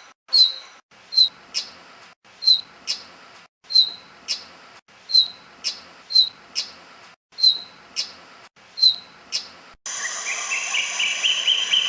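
Brown rock-chat (Indian chat) calling: about eight repeated pairs of short, sharp notes, each pair a high chip followed by a click-like note. Near the end it switches suddenly to a rapid chattering series over a steady hiss.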